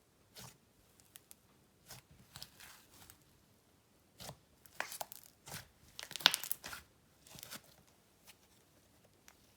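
Hands working a thick icing slime, with an irregular string of short sticky tearing and popping sounds; the loudest cluster comes about six seconds in.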